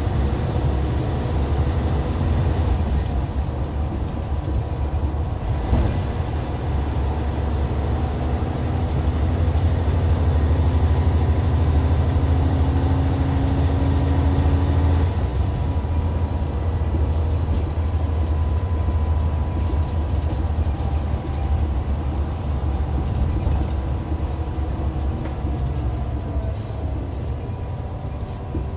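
Hyundai D6CC Powertec 380 straight-six diesel of a Hyundai Universe Comfort coach running under way, a deep drone heard from inside the bus. The engine note climbs slowly for several seconds and drops off about halfway through.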